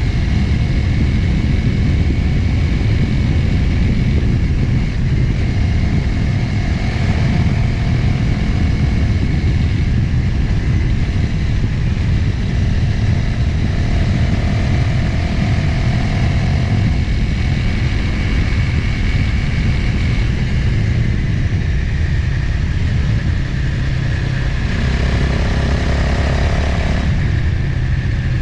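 Motorcycle engine running steadily while riding at road speed, with heavy wind rush on the camera microphone.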